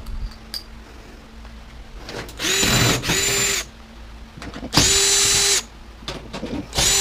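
Power drill run in four short bursts, each a steady whine that starts and stops with the trigger.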